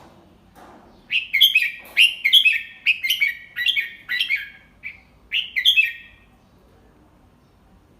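Red-whiskered bulbul singing one phrase of quick, clear chirping notes. The phrase starts about a second in and lasts about five seconds, then stops. It is a tutor bird's song meant for young bulbuls to copy.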